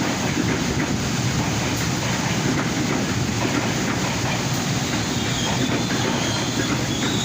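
Train rolling into the station, a steady rumble of wheels on the rails with some clatter.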